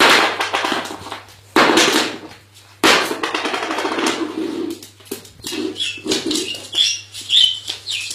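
Pet parrot sounds: three sudden harsh, noisy bursts, each fading over about a second, then a string of short chirping calls near the end.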